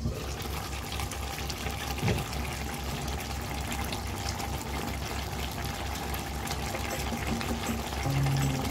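Chicken pieces in a spiced yogurt gravy simmering in a pan, bubbling and crackling steadily over a low pulsing hum. Music comes in near the end.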